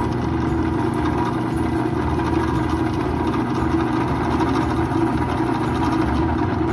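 Drill press running steadily with a wire brush spinning on an arbor, used to clean mill scale off welded, peened cap screws.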